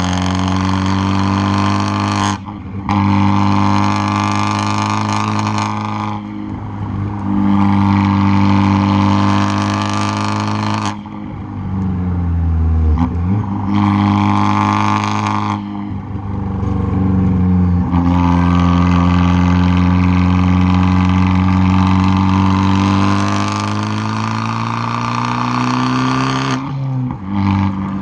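Exhaust of a tuned Fiat 500 Abarth's 1.4-litre turbocharged four-cylinder, heard close from the rear bumper, running hard under load. Several times the throttle lifts briefly, for shifts or corners, and the note drops for a moment before coming back on.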